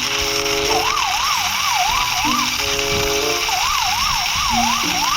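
Electronic police-style siren, its pitch sweeping quickly up and down about three times a second, in two runs with a short break between. Background music plays underneath.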